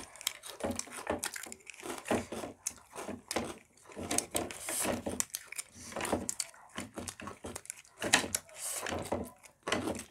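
Close, irregular crunching and clicking of Kurkure corn puffs being eaten with chopsticks, with snacks crackling and chopsticks tapping against the plate.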